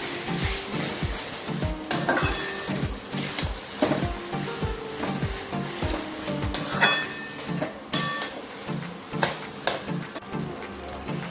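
Food frying in hot oil in a pan, a steady sizzle, stirred with a metal utensil that clinks against the pan several times. Background music with a steady beat plays throughout.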